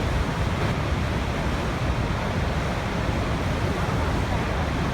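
Waterfall: a steady, deep rush of falling water, heaviest in the low end.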